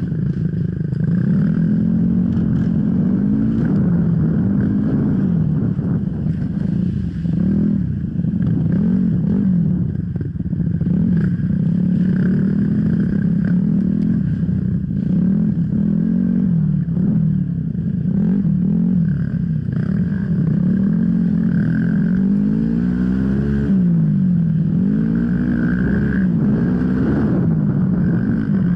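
Enduro motorcycle engine revving up and down over and over as it is ridden along a trail, with occasional knocks and rattles.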